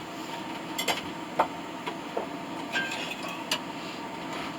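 A few scattered light clinks and taps, about five short sharp strikes, over a steady background hum.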